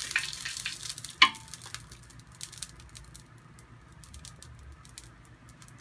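Cooking oil crackling and sizzling on a hot nonstick grill pan as it is brushed over the ridges, thinning out to sparse faint spits. A single sharp knock about a second in.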